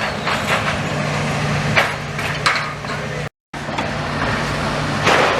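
Steady low engine hum over outdoor background noise, with a few short sharp knocks. The sound cuts out completely for a split second just past halfway.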